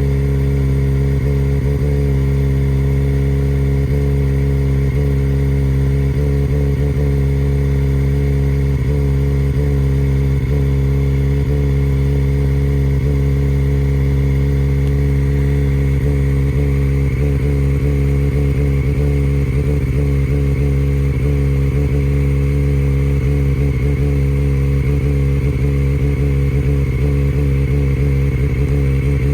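Kawasaki ZX-4RR's 399 cc inline-four running steadily through a full Akrapovic racing-line exhaust, holding an even, low engine note with only slight wavers in pitch.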